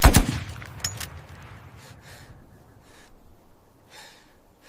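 A sudden heavy boom that fades out in a long low rumble, followed about a second in by two sharp clicks, then a few faint breathy puffs.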